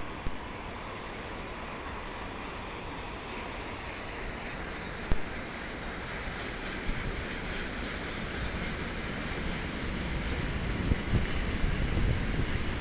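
Freight train with a 2ES6 Sinara electric locomotive hauling tank cars approaching, a steady rumble that grows louder over the last few seconds, with wind on the microphone. A single sharp click about five seconds in.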